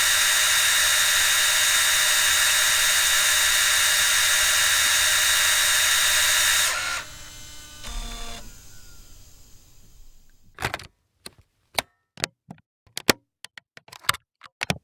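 A steady, hissing machine noise with a few steady tones cuts off about seven seconds in. A low thump follows, then a run of sharp, irregular clicks.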